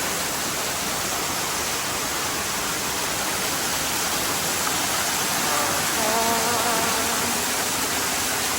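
Waterfall close by: a steady, full rush of falling and splashing water.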